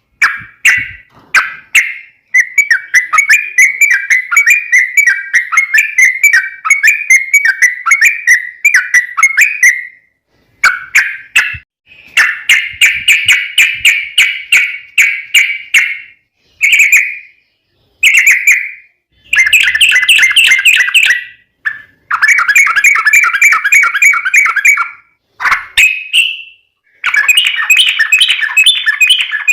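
Yellow-vented bulbul (trucuk) singing vigorously in long, rapid rolling runs of bubbly notes at a steady pitch. The runs are broken by short pauses and several briefer phrases.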